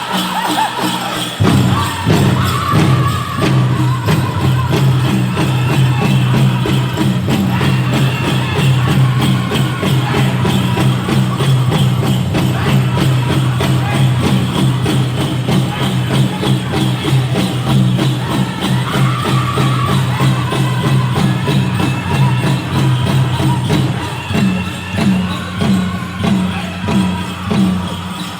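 Powwow drum group singing a chicken dance song to a fast, steady beat on a big drum, with the dancers' bells jingling. The drumming comes in about a second in, and near the end the beats turn louder and more spaced out.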